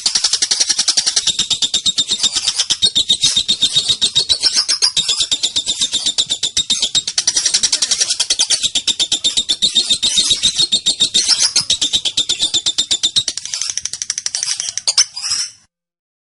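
Female lovebird giving a long, rapid chattering trill (ngekek): an unbroken string of high, shrill notes many times a second, cut off abruptly near the end.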